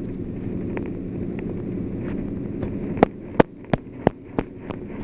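Six sharp knocks in quick succession, about three a second, starting about three seconds in, over a steady low hum.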